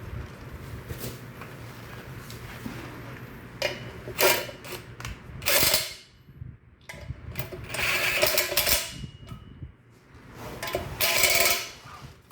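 Jeil Tech 13J bench drill press running in four short bursts of about half a second to a second each, over a low steady hum.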